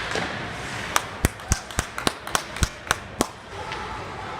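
Sounds of ice hockey play: a quick, irregular run of about ten sharp knocks and clacks, such as sticks and puck, against a steady hum of arena background noise.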